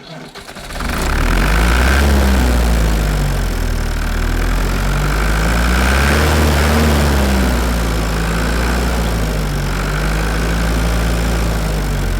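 An engine idling, coming up to full level under a second in, its pitch drifting gently up and down a couple of times.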